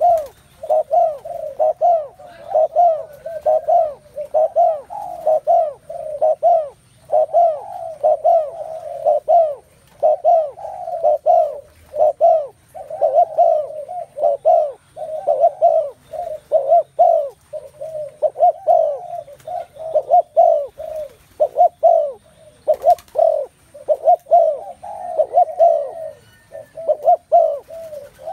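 Several spotted doves cooing at once, their repeated coo phrases overlapping in a dense, unbroken chorus.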